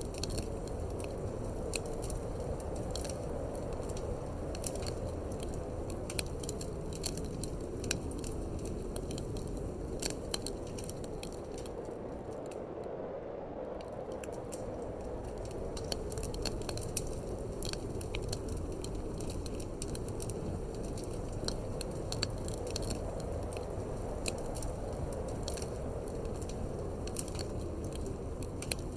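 Wood fire crackling in a fireplace, with frequent sharp pops and snaps over a steady low rush of wind.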